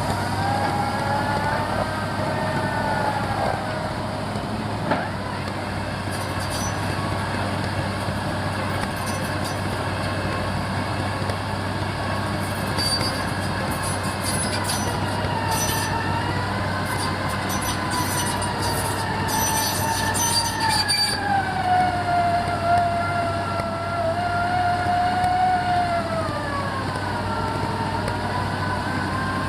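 Rotary pile-drilling rig at work boring in gravelly sand: a steady engine drone under a whine that drifts slowly up and down in pitch. Clusters of sharp clicks and rattles come through the middle of the stretch.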